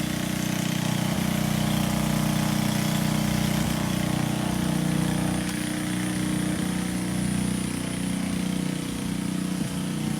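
An engine running steadily with an even low hum, no change in speed.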